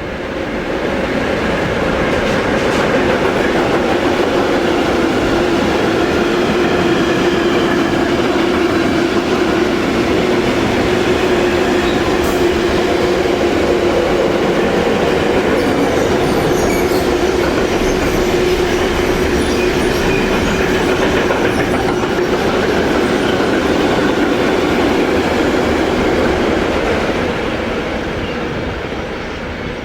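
A train running past on the track. The rail noise builds up over the first two seconds, holds steady with a constant tone running through it, and dies away near the end.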